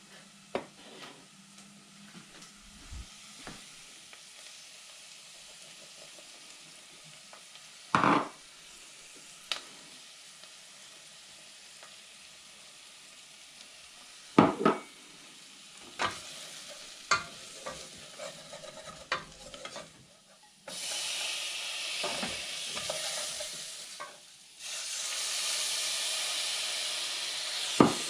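A few sharp knocks and taps, among them a knife on a wooden chopping board. About 20 seconds in, vegetables and spices begin frying loudly in a stainless-steel pot, stirred with a wooden spoon; the sizzle breaks off briefly and resumes.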